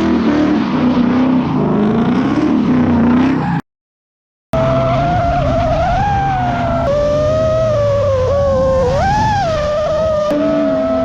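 Race car engines running on a dirt or oval track, their pitch rising and falling as they lap. The sound cuts out completely for about a second near the middle, then comes back as a strong steady engine note that dips and swells.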